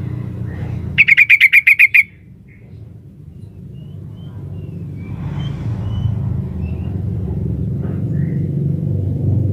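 Female yellow-vented bulbul (trucukan) calling: about a second in, a loud, rapid chattering run of about nine notes lasting about a second, followed by a few faint chirps, over a low background rumble.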